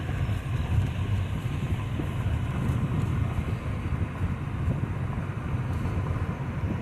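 Steady low rumble of a car driving slowly, with engine and road noise heard from inside the cabin.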